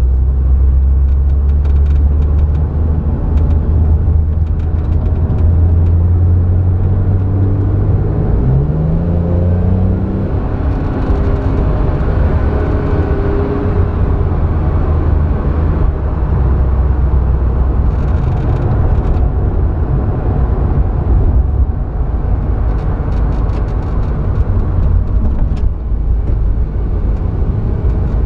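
Porsche 911's flat-six engine running at speed, heard from inside the cabin as a steady low drone mixed with road noise. From about eight seconds in, the engine note climbs steadily for several seconds.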